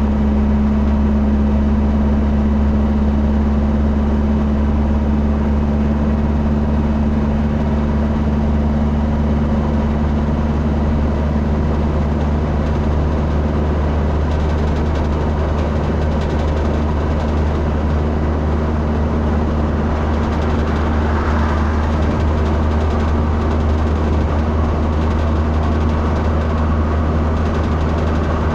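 Steady low drone of a vehicle engine running, unchanging throughout.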